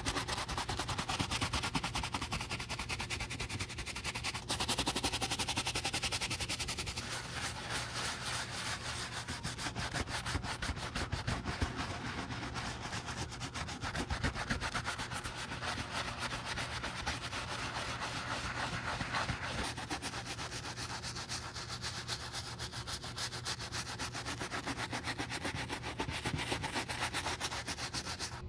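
Fast, repeated rubbing strokes against a cowboy boot during restoration work, a continuous gritty scraping made of many quick passes.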